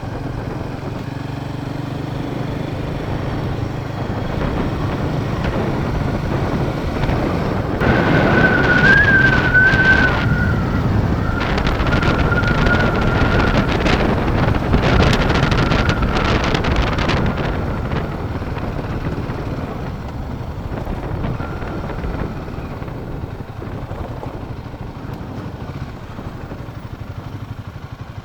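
Royal Enfield Himalayan 450 motorcycle running on a sandy off-road trail, with wind buffeting the microphone. From about 8 to 17 seconds in it gets louder and rougher, with a thin wavering whine over the engine, then eases off.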